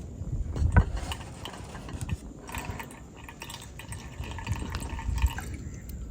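Liquid pouring and dripping, with scattered small clicks and knocks.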